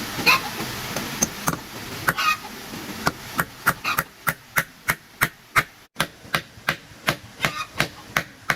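A few scattered knocks, then from about three seconds in a run of rapid, evenly spaced sharp tool strikes, about three a second.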